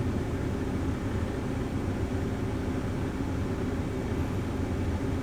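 Semi truck's diesel engine idling steadily, a low even rumble.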